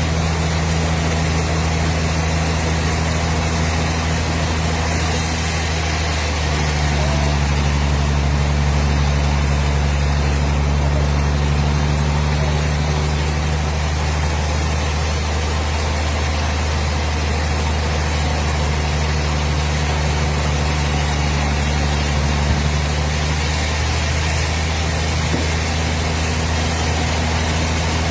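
A machine engine or motor running steadily, with a slight change in its pitch and a small rise in level about six seconds in.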